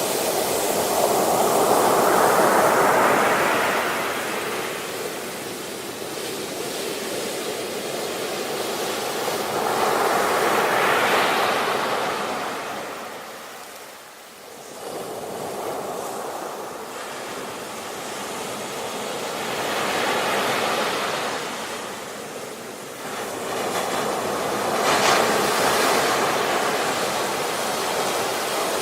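Ocean waves breaking and washing on the shore, a steady rushing hiss that swells with each wave, about four times, and falls back between.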